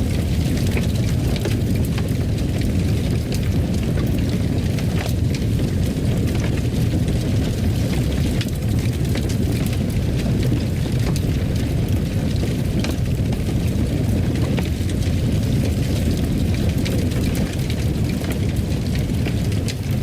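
Fire burning in a fireplace: a steady low rumble of flames with scattered crackles and pops throughout.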